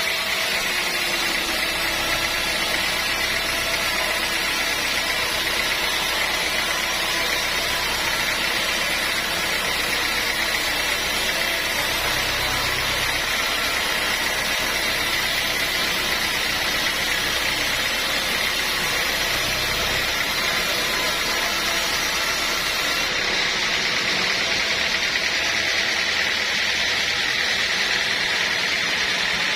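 Sawmill machinery running steadily: a constant loud mechanical noise with a steady high whine.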